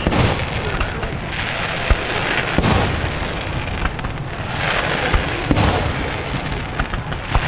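Aerial fireworks: three loud shell bursts, about three seconds apart, with lighter thuds and steady crackling between them.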